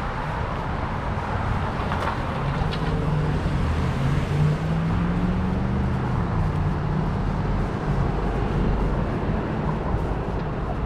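City street traffic noise: a steady rush, with a vehicle engine hum that rises and then falls in pitch through the middle.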